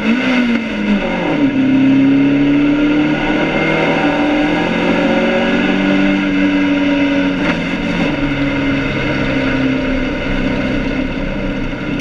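BMW 2002 race car's four-cylinder engine heard from inside the cabin, running hard at steady revs. The pitch wavers in the first second or so, holds steady, then drops about eight seconds in as the revs come down.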